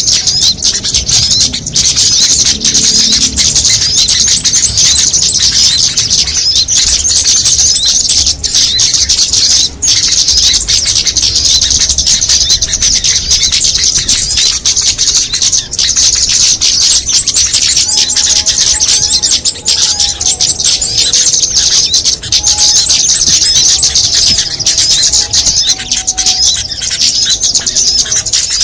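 A dense, continuous mix of small songbirds' calls: rapid, high-pitched chirping and twittering without a break, played as a recorded bird lure for small birds. About two-thirds of the way in, a lower warbling call joins in.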